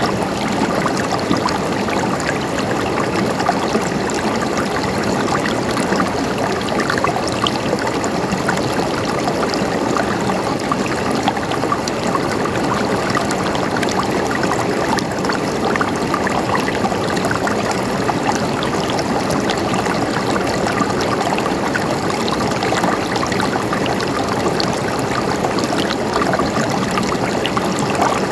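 A stream of water flowing and gurgling steadily, with small splashes and trickles.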